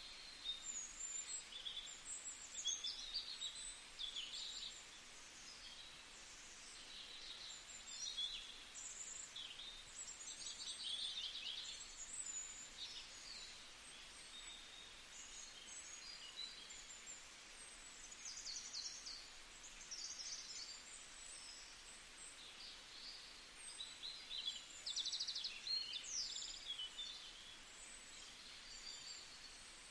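Small birds chirping and trilling, many short calls scattered throughout, faint over a steady hiss.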